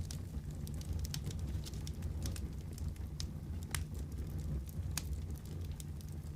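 Wood fire crackling in a fireplace: a steady low rumble of flames with irregular sharp pops and snaps, a few louder ones in the second half.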